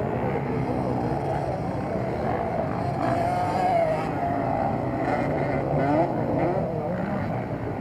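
Several motocross motorcycles running on the track at once, their engine notes rising and falling as the riders work the throttle, with louder swells about three to four seconds in and again around six seconds.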